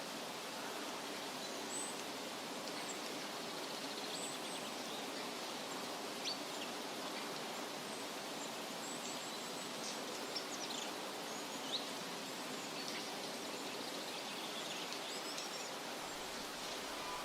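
Forest ambience: a steady rushing hiss with faint, short, high bird chirps scattered through it and a few soft clicks.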